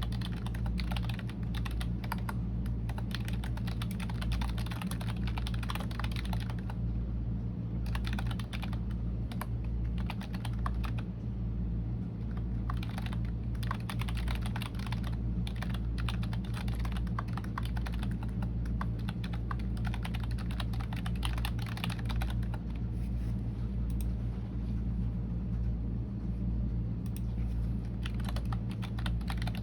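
Computer keyboard typing in quick runs of key clicks broken by short pauses, over a steady low hum.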